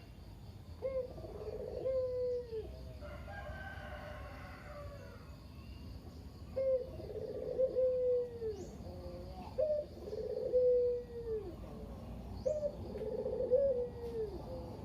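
A puter dove (domestic Barbary dove) cooing over and over in four bursts, each a short run of low coos with a falling tail. A rooster crows once in the background a few seconds in.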